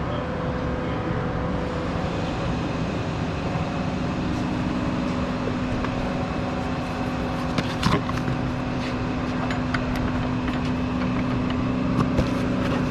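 Steady machinery hum from the shop's running equipment, with a few sharp metallic clicks and knocks, about eight seconds in and again near the end.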